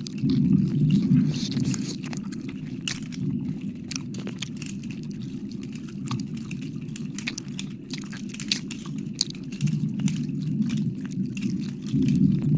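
Wet mouth sounds close to the microphone: many quick wet clicks and smacks of licking over a steady low rumble.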